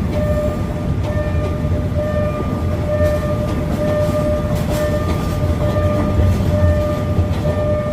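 Hitachi diesel-electric locomotive idling: a steady low engine rumble with a tone that pulses on and off in a regular rhythm, and an engine cover flapping in the idle vibration.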